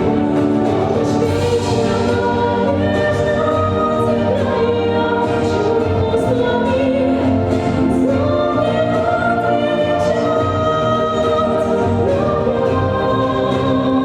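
A song from a stage musical: a choir of voices singing long held notes over an instrumental backing.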